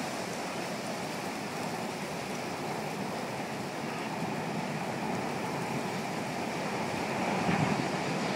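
Storm wind blowing, a steady rushing noise that grows a little louder near the end.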